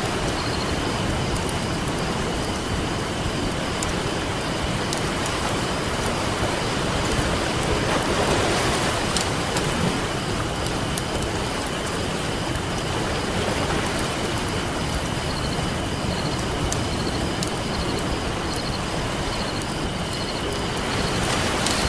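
Campfire crackling with scattered sharp pops over the steady wash of ocean waves; a wave swells louder about eight seconds in.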